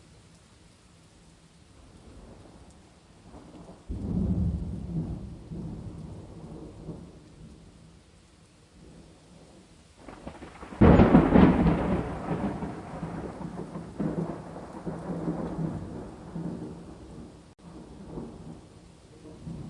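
Thunderstorm: a quiet, steady hiss of rain with two thunderclaps. The first comes suddenly about four seconds in and rumbles away; the second, the loudest, cracks about eleven seconds in and keeps rumbling for several seconds.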